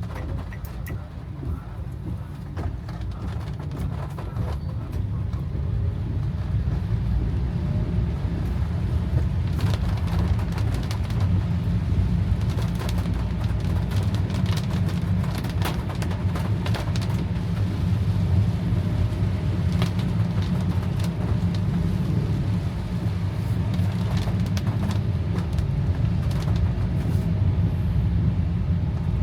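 Steady low rumble of a car driving in heavy rain, heard from inside the cabin, with scattered sharp ticks of raindrops striking the car. The rumble builds over the first few seconds and then holds steady.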